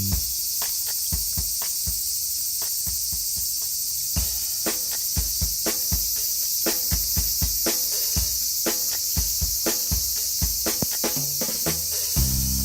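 A steady, high-pitched insect chorus like crickets, with a run of quick, sharp ticks and knocks over it.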